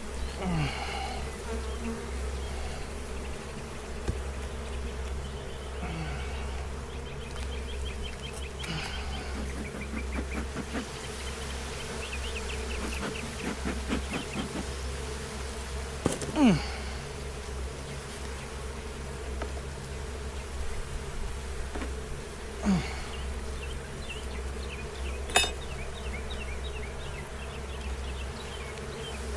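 Honeybees from an opened hive buzzing steadily, with single bees flying close past several times, each pass a buzz that falls in pitch. A sharp tap sounds near the end.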